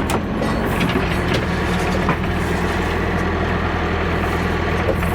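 Backhoe's diesel engine running steadily at raised throttle while the hydraulics lift the outriggers, with a few clanks in the first two seconds.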